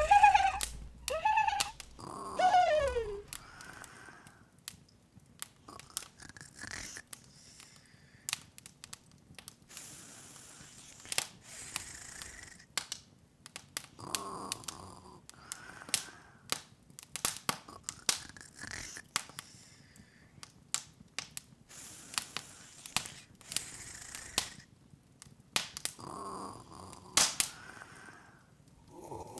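Open wood fire crackling, with irregular sharp pops and snaps. Short squeaky little-creature vocal sounds break in a few times, the loudest with a falling squeak in the first few seconds.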